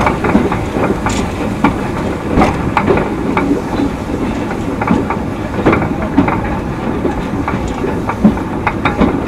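2 ft narrow-gauge train running along the track: a steady rumble with frequent irregular clicks and knocks of wheels and running gear over the rail joints.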